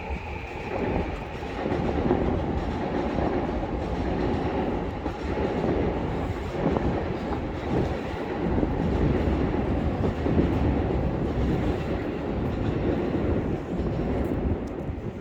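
A train running by on the rails, a steady loud noise of wheels on track that swells about a second and a half in and eases near the end.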